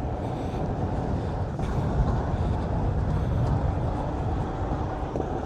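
Steady low rumble of riding noise from a Onewheel electric board rolling along a road, with wind on the microphone.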